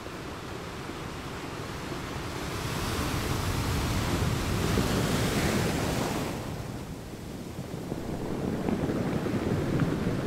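Sea waves washing and surging, with wind buffeting the microphone. The rush swells over a few seconds, falls away past the middle, then builds again near the end.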